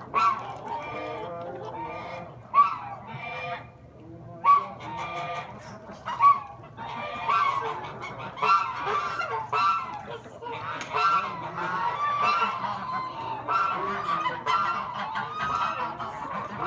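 A flock of geese honking, many overlapping calls that grow denser and more continuous toward the end.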